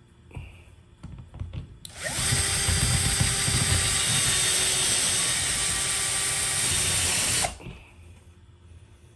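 Power drill running at a steady speed for about five and a half seconds, starting and stopping abruptly, after a few light knocks.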